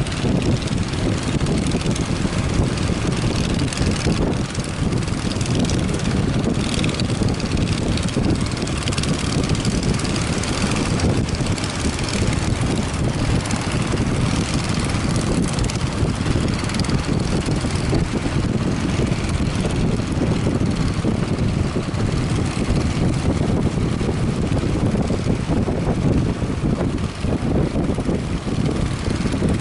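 Strong wind buffeting the microphone: a steady, heavy rumble with a hiss above it.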